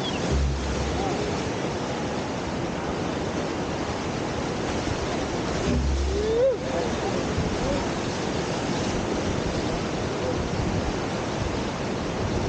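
Steady rush of whitewater at a river surf wave, with a short burst of low wind rumble on the microphone about half a second in and again around six seconds.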